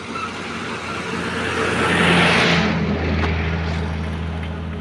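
A motor vehicle passes on the road, its engine and tyre noise swelling to a peak about two seconds in and then fading, over a steady low engine hum.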